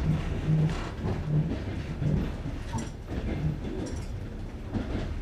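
Passenger train wheels knocking over the joints of jointed (bolted) rails, the clickety-clack of a moving carriage heard from inside the train. A run of knocks about every half second to second, over a steady low rumble.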